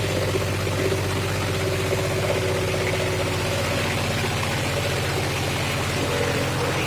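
John Deere 5060E tractor's three-cylinder diesel engine running steadily.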